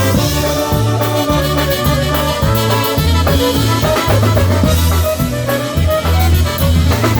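Live polka band playing an instrumental passage, with a steady bass line and drum kit under the melody.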